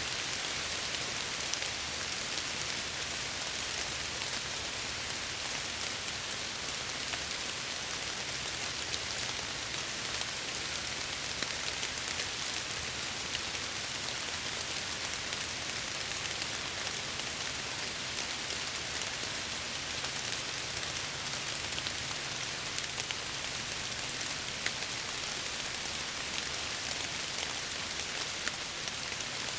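Steady rain falling against window glass: a dense, even hiss with scattered sharp ticks of individual drops, over a faint low steady rumble.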